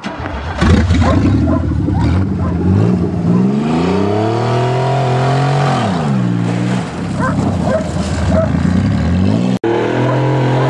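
Engine of a cut-down half Pontiac car revving: its pitch climbs for a couple of seconds, drops about six seconds in, then climbs and falls again after a brief break near the end.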